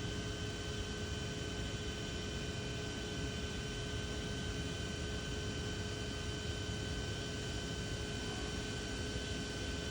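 Steady machine hum and hiss, unchanging, with a few high steady whining tones running through it.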